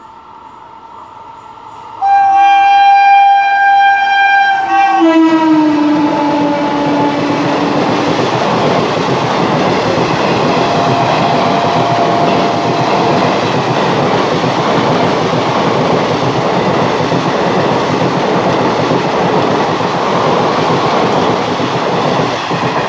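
A passing passenger train's horn sounds loudly for about three seconds, its pitch dropping as the locomotive goes by. The steady rushing clatter of the coaches running past at speed follows.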